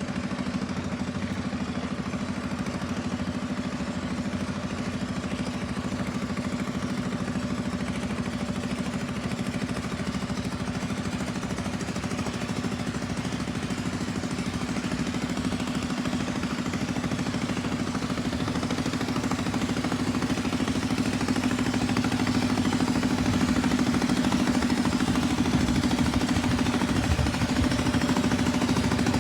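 An engine running steadily at an even speed, getting a little louder about two-thirds of the way through.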